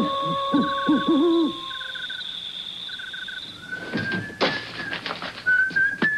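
Night-time nature sound effects: hooting owl calls and short pulsed chirps over a steady high tone. From about four seconds in someone whistles a wavering tune over several clattering knocks.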